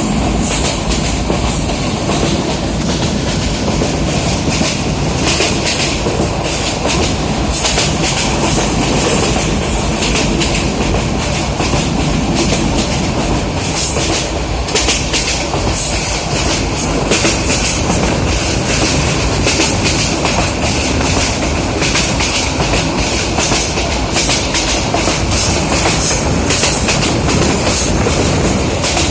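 Moving passenger train running on the rails: a loud, steady rumble with frequent sharp clacks and rattles of the wheels over the track.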